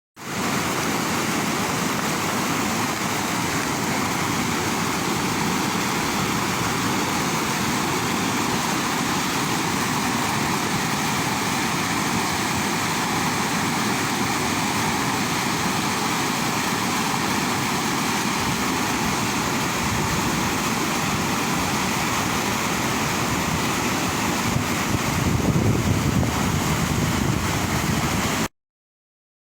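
Steady rushing roar of water pouring over a river waterfall and rapids, growing a little louder near the end before cutting off suddenly.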